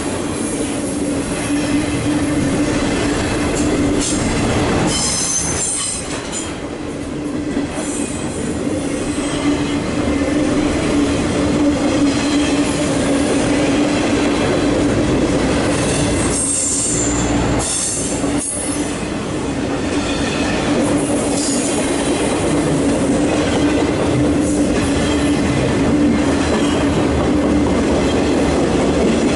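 CSX intermodal freight train rolling past close by: the steady rumble and rattle of its loaded well cars' wheels on the rail, with a steady tone running through it and wheel squeal.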